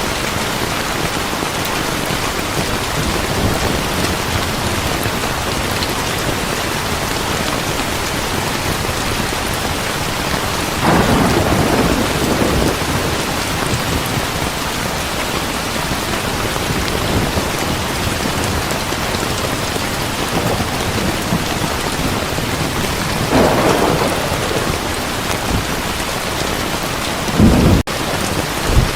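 Heavy rain falling steadily, with thunder rolling twice, about eleven seconds in and again about twenty-three seconds in. A short, loud low rumble comes near the end and cuts off abruptly.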